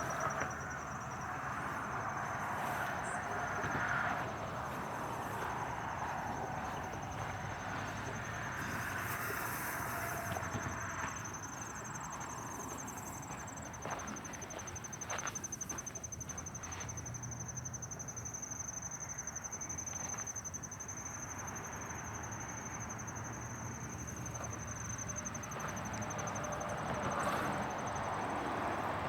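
An insect trilling: one continuous, high-pitched, finely pulsing trill, over a soft outdoor hiss.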